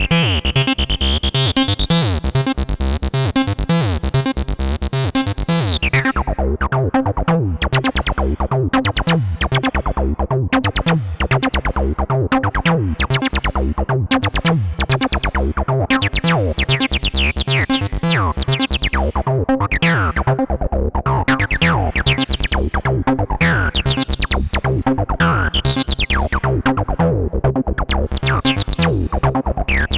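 Behringer TD-3-MO analog bass synthesizer playing a fast, repeating acid bassline sequence. For the first six seconds its filter is held wide open and bright, then it snaps shut. After that the notes are short and plucky, each with a quick bright attack that dies away.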